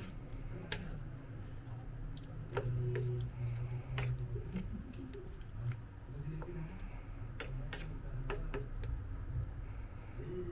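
Scattered sharp clicks and clinks at irregular moments, from a utensil working in a cooking pot, over a steady low rumble.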